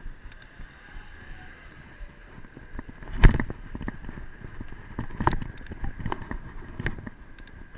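A bicycle being ridden: irregular rattles and knocks from the bike jolting over bumps, the loudest a sharp knock about three seconds in, with wind on the microphone.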